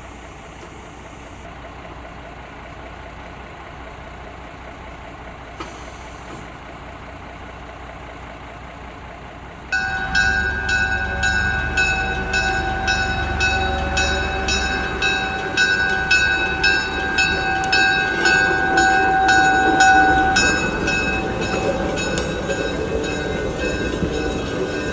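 A steady low rumble, then about ten seconds in a train running on rails cuts in suddenly and loudly: steady high whining tones over rapid, regular clicking.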